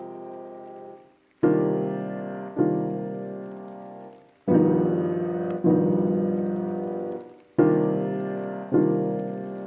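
Background piano music: slow sustained chords struck in pairs about every three seconds, each chord fading away before the next.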